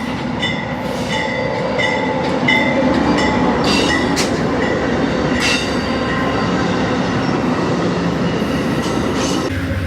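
Amtrak passenger train led by a GE B32-8 locomotive passing on a curve: steady rumble of the engine and the wheels on the rails, with a regular ringing about twice a second in the first few seconds and a few brief high wheel squeals later on.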